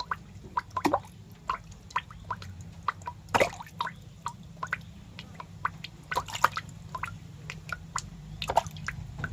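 Irregular wet clicks and small drips, several a second with a few louder clusters, over a low steady hum.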